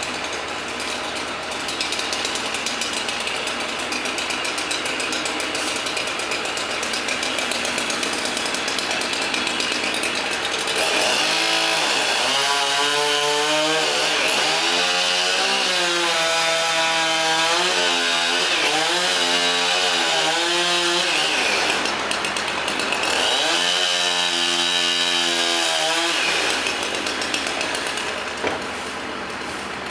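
Chainsaw running and cutting wood, revving up and down in two spells, the first long and the second short, over a steady mechanical noise.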